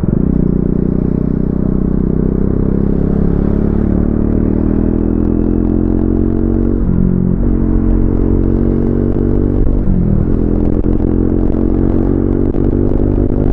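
Triumph Speed 400's 398 cc single-cylinder engine running steadily under way, with two brief breaks in the engine note about seven and ten seconds in.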